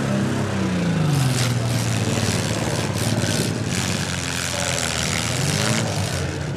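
Demolition derby car engines revving over a noisy arena din; one engine's pitch drops over the first two seconds and climbs again near the end.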